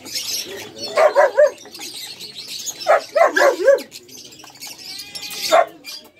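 Young dogs yapping in short, high-pitched bursts: a quick run of three or four yaps about a second in, another run of four or five about three seconds in, and a single yap near the end.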